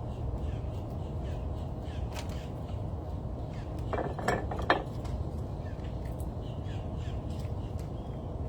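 Crow cawing, about three harsh caws in quick succession a little past halfway, with faint small-bird chirps over a steady low rumble.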